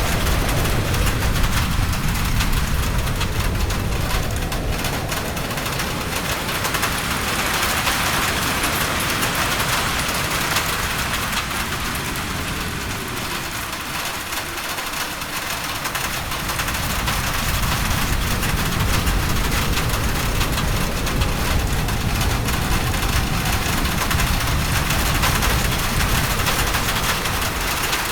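Steady rain hiss with a low, gusting wind rumble underneath. The rumble eases about halfway through and builds again near the end.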